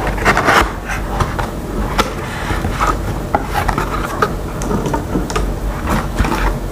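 Rustling and scattered knocks and taps of a package being handled and unpacked.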